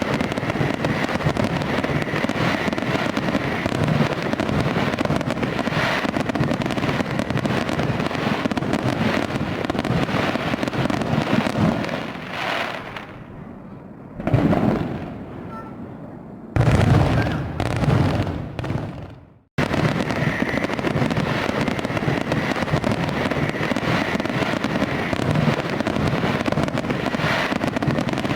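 Fireworks display: a dense, continuous crackle of bursts and pops. Around the middle it thins out to a few deep booms, then cuts off abruptly and starts again in the middle of a volley.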